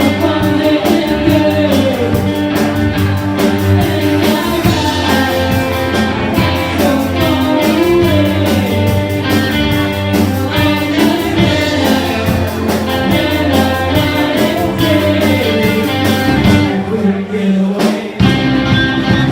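A live rock band playing guitar and drums, with a singer's voice over it. Near the end the cymbals drop out for a moment before the full band comes back in.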